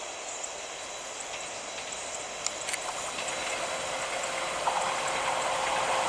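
Train approaching on the rails, its rumble and wheel noise growing steadily louder.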